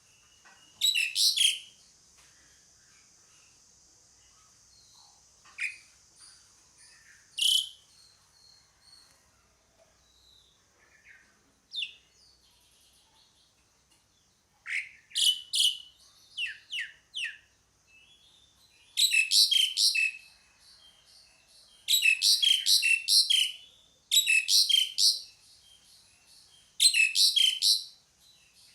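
Asian pied starling (jalak suren) calling: short bursts of rapid, harsh, chattering notes, each about a second long, repeated every few seconds and coming more often in the second half.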